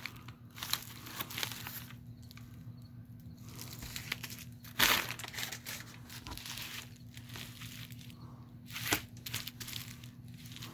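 Packaging being handled and opened: irregular crinkling and rustling of wrapping, with two louder rips about five and nine seconds in.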